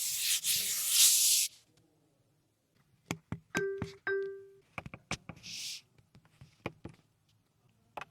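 A loud burst of hiss, then after a pause a run of sharp clicks and two short electronic beeps, followed by another brief hiss and a few more clicks.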